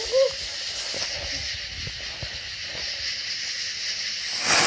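A small ground-spinner firework hissing after being lit with a punk, then breaking into a much louder hiss of sparks near the end. It burns without spinning.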